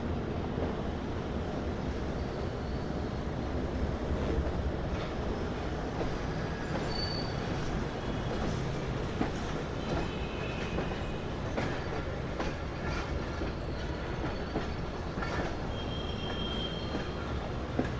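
Pakistan Railways passenger train running along the track: a steady rumble of wheels on rails with irregular clicks and knocks, and a few brief high-pitched wheel squeals.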